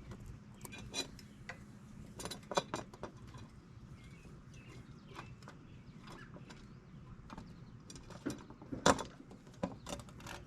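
Irregular metallic clicks and knocks of hand tools working on small fasteners, with the loudest knock near the end.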